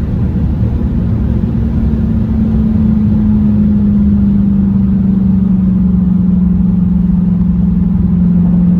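Car engine and exhaust with the mid muffler deleted, droning steadily while driving. The drone sinks slowly in pitch as the car eases off.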